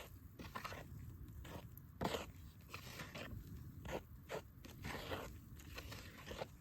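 Irregular series of short crunches and scrapes, about three a second, with one louder crunch about two seconds in.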